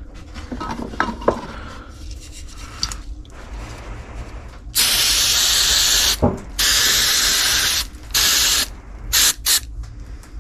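Small metal clicks and knocks from parts being handled, then five blasts of loud hiss from a pressurized nozzle. The first two blasts last over a second each and the last ones are short.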